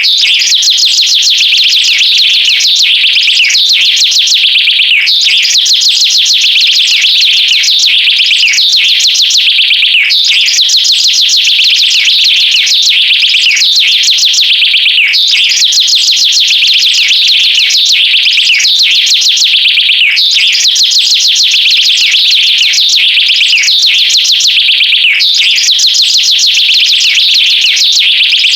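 A loud, high-pitched rapid trill of fast repeated pulses, chirping like a bird or a synthesizer. The same phrase loops about every two and a half seconds, each turn marked by a quick downward sweep, with no low notes underneath.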